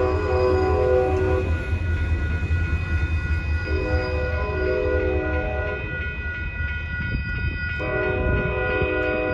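Diesel-electric locomotives of an Altamont Commuter Express passenger train rumbling past a road crossing and pulling away. Over the rumble, a multi-note train horn sounds three long blasts: the first ends about a second and a half in, the second comes near the middle, and the third starts near the end.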